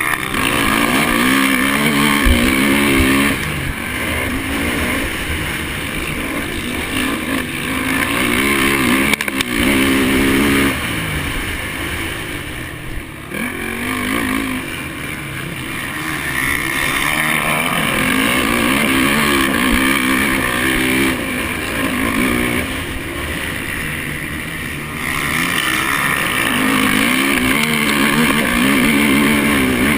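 Honda 450 four-stroke single-cylinder motocross bike racing. The engine revs up and down over and over through throttle and gear changes, with two lulls where it drops off, likely easing into corners.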